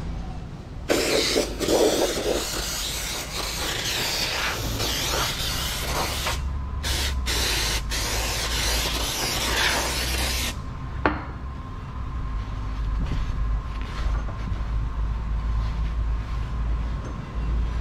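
Pressurised spray hissing in a long burst with two brief breaks, cutting off sharply about ten seconds in. A steady low rumble follows, with a single click.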